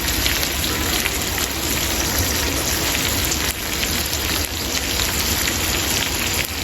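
Yogurt-masala chicken pieces sizzling on a hot tawa (flat iron griddle), a steady crackling sizzle.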